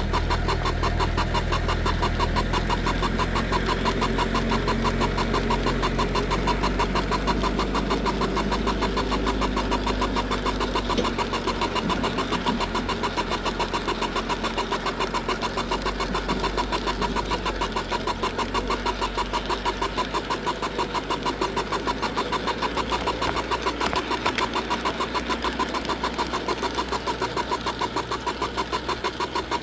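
Garden-railway model train running, heard from a camera riding on it: a rapid, even rattle of wheels on the track over a motor hum. The low hum fades about halfway through.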